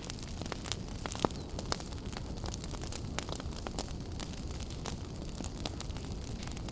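Fireplace fire burning with a steady low rush and frequent sharp crackles and pops, one louder pop a little over a second in.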